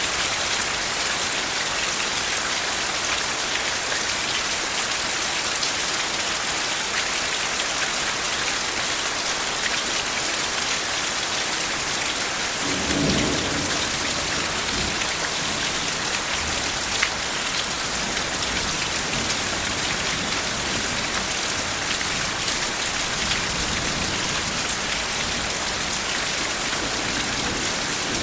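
Steady, heavy rain falling, with a soft low roll of thunder about halfway through.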